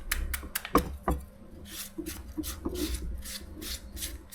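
A few sharp knocks, then a run of rasping strokes at about three or four a second: green papaya being shredded by hand for som tum.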